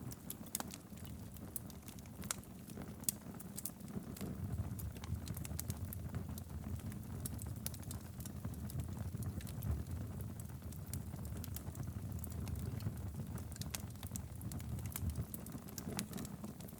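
Wood fire burning steadily in a fireplace, with a low rumble of flame and many sharp, irregular crackles and pops.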